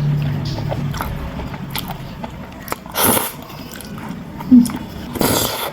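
Close-miked mukbang eating: a person biting and chewing jelly-like seaweed candy in pineapple syrup, with many small wet clicks. Two louder bursts of noise come about three seconds in and near the end.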